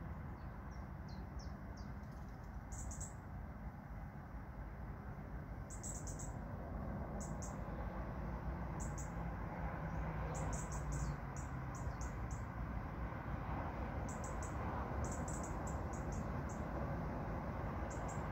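Short, high chirps from a small bird, given in quick runs of two to five and repeated every second or two, over a steady low background rumble.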